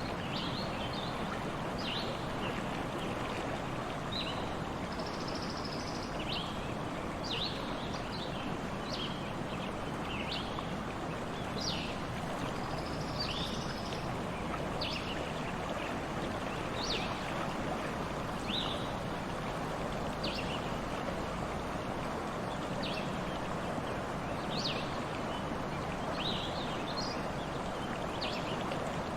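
Stream flowing steadily, with small birds calling in short chirps again and again over the water.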